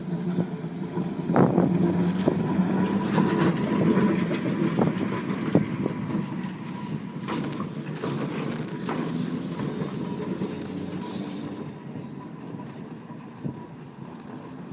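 Glasgow Corporation electric tram No. 1017 running with a steady electrical hum, broken by many sharp cracks and snaps from electrical arcing. It is loudest in the first few seconds and fades toward the end.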